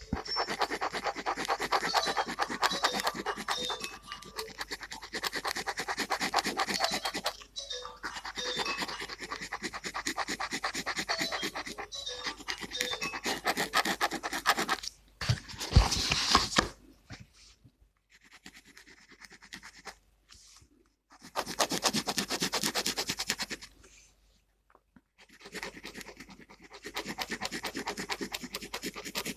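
Gel pen scribbling on paper, filling in colour with rapid back-and-forth strokes in stretches of several seconds separated by short pauses. About halfway through, a louder knock comes from the pen or paper being handled.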